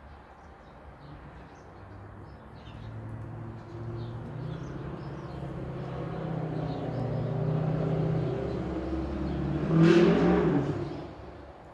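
A motor vehicle drives past, its engine growing steadily louder for several seconds, passing loudest about ten seconds in and then quickly fading. Small birds chirp faintly throughout.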